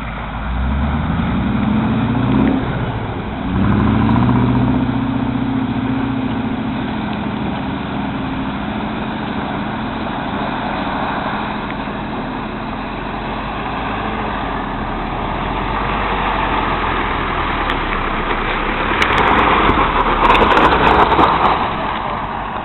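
A 4x4's engine revving up twice in quick succession, then running steadily under load, with a louder rushing noise near the end.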